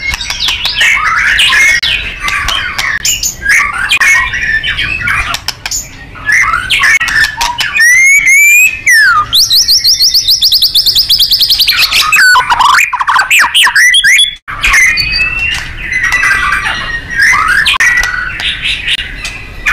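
White-rumped shama (murai batu) singing a loud, varied song of whistles and chattering phrases. Around the middle comes a fast rattling run of rapidly repeated notes, the rapid-fire 'nembak' delivery prized in contest birds.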